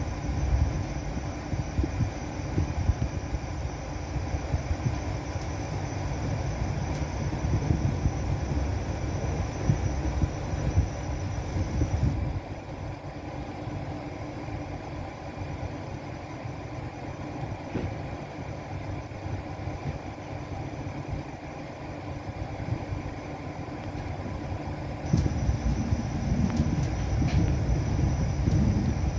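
Passenger train running on rails, heard from inside the carriage: a steady rumble of wheels and running gear. It turns quieter about twelve seconds in and grows louder again near the end.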